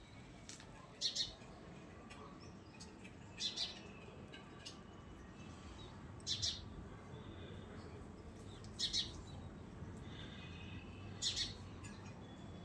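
Short, high bird chirps, each a quick pair of notes, repeating about every two and a half seconds, five times over a faint steady background.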